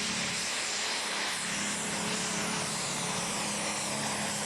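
Ford 7810 pulling tractor, its engine boosted to about 1000 competition horsepower, running flat out as it hauls the weight sled down the track. The sound is loud and steady, with no breaks.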